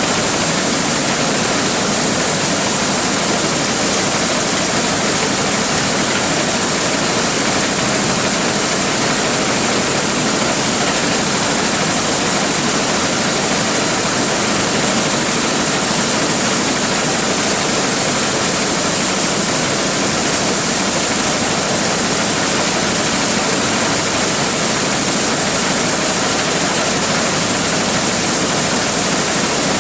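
Large corn sheller running steadily: a loud, even rushing noise with a strong high hiss.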